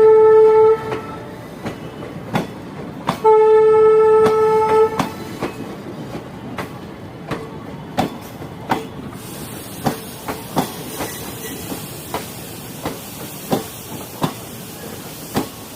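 Train horn sounding two steady blasts, one fading out within the first second and a second, nearly two seconds long, about three seconds in. After it the train's wheels click over the rail joints in an uneven clickety-clack.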